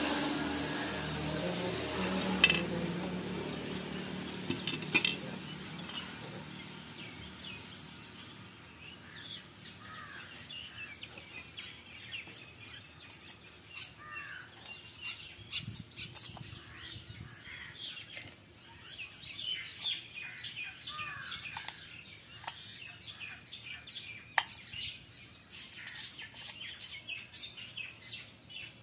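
Small birds chirping in many short, quick calls through most of the stretch. At the start a low motor rumble fades out over the first few seconds, with a couple of sharp metallic clinks.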